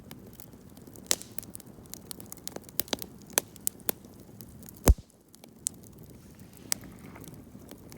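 Wood campfire crackling, with irregular sharp cracks and pops over a faint hiss, and one louder, deeper pop about five seconds in.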